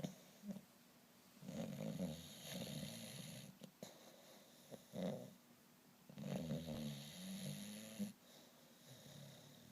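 English bulldog snoring in deep sleep: two long rattling snores of about two seconds each, with shorter snorts before, between and after them.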